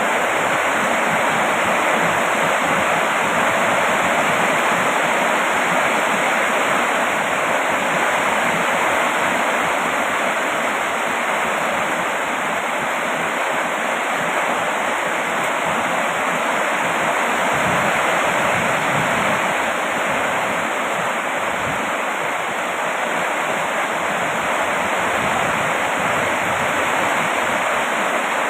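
Heavy rain falling in a steady, even hiss, with no single drops or drips standing out.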